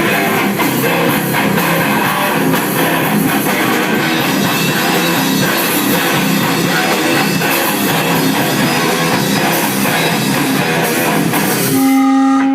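Grindcore band playing loud and fast with distorted electric guitar and drums during a soundcheck. Near the end the band breaks off and a single sustained note rings on.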